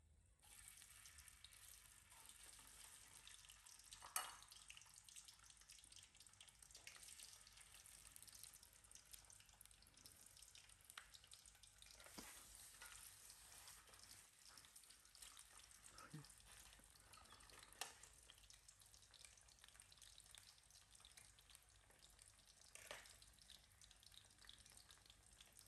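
Raw potato sticks frying in hot oil in a metal wok: a faint, steady sizzle with fine crackling that starts as they are lowered into the oil. A couple of sharp clicks break it, one about four seconds in and one near eighteen seconds.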